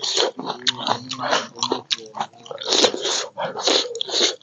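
Loud close-miked eating: a person biting and chewing food, with a quick irregular run of wet mouth sounds.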